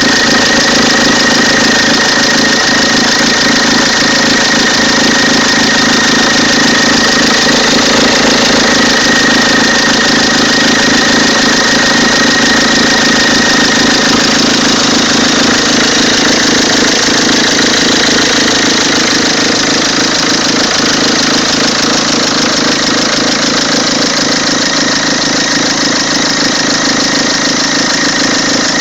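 Peugeot 206 2.0 HDi four-cylinder turbodiesel engine running steadily, with a thin high whine that fades out about halfway through. This is the strange engine noise the owner cannot identify.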